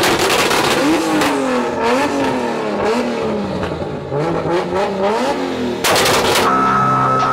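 Nissan S14 drift car's 800 hp turbocharged RB25 NEO straight-six revved up and down several times, crackling and popping from the exhaust. About six seconds in there is a loud burst of pops, then the engine holds a steady rpm on the two-step launch limiter.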